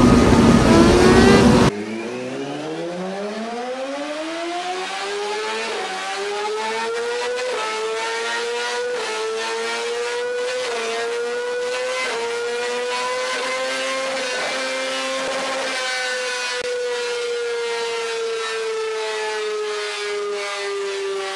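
A motorcycle engine under hard acceleration. After an abrupt change about two seconds in, its pitch climbs steeply over several seconds with brief small steps, then holds high and slowly eases down.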